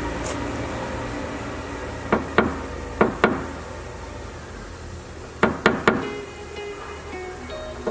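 Paintless dent repair knockdown tool tapped with a small hammer on a car's quarter panel, flattening the high outer edge of a dent. Seven sharp taps in quick groups: two, then two, then three.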